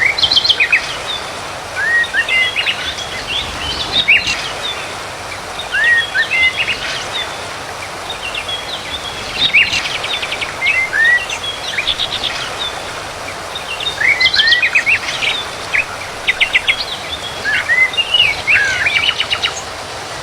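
Songbirds chirping and trilling in short bursts every few seconds, over a steady background hiss.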